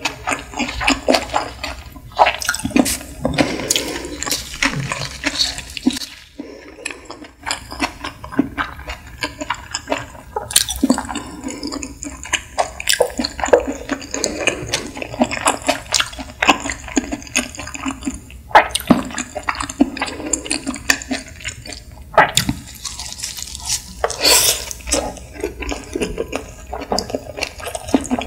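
Close-miked chewing of nigiri sushi: many irregular small clicks and mouth noises, with a brief pause about six seconds in.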